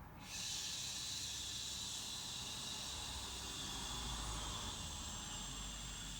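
A long, steady 'shhh' hissed out through the teeth on one breath as a breathing exercise, starting just after the beginning. It is meant to be like a balloon being let down.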